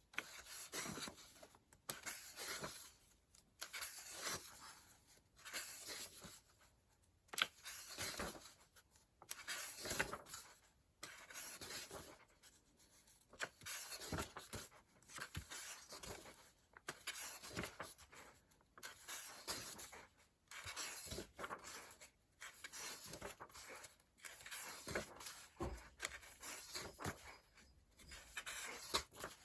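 Paper pages of a coloring book being turned and handled, rustling in repeated short bursts every second or two, with an occasional sharper tap.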